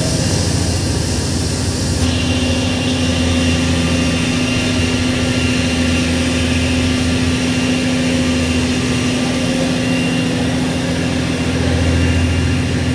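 Steady drone of an engine with a constant low hum, over an even hiss of heavy rain and wind.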